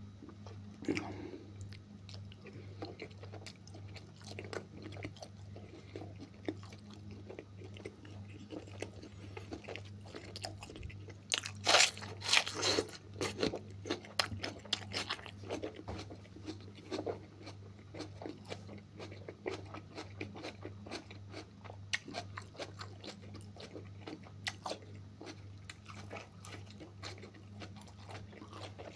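A man chewing and biting beef offal close to the microphone, with many small wet mouth clicks and a louder bout of crunching about twelve seconds in. A steady low hum runs underneath.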